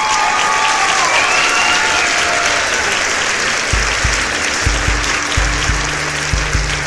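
Steady, loud hiss of heavy rain. Music with a thumping bass beat comes in about four seconds in.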